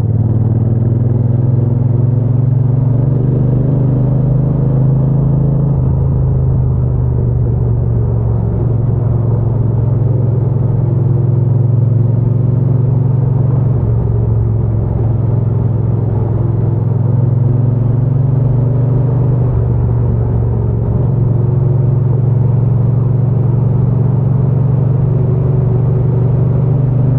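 Triumph Bonneville T120's parallel-twin engine and exhaust running steadily while the bike is ridden, a low rumble whose pitch eases up and down slightly a few times with small throttle changes.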